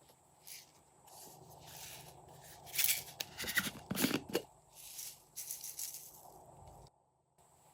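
Glossy slime being squished and stretched by hand, giving irregular sticky crackles and pops, with a quick run of sharper clicks about three to four seconds in.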